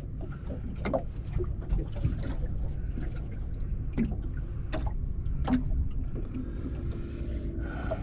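Steady low rumble of wind and water around a small boat, with scattered sharp knocks and clatters on the boat.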